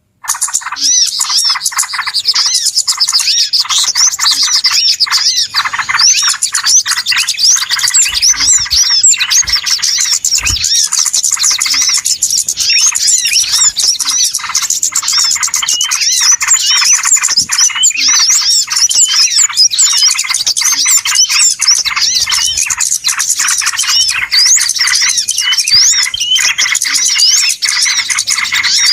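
A dense, busy chorus of many small birds chirping and twittering at once, with quick overlapping high calls and trills and no pause. It is a 'pikat' lure recording of noisy birds, the kind played to draw wild birds in for catching.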